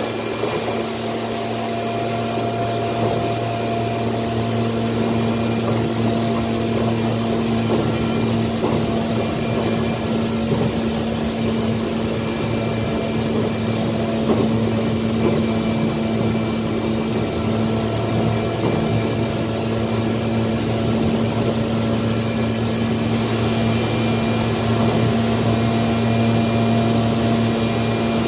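Tokyu 8500 series electric train running: a steady hum with a few held tones over an even rolling rumble, slowly growing a little louder.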